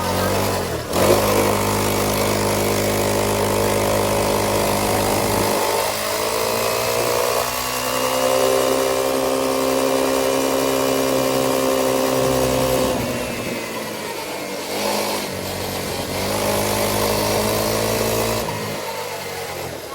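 Motorcycle engine running under way, its pitch climbing about six seconds in and holding, then easing off around thirteen seconds, picking up again around sixteen and dropping away near the end.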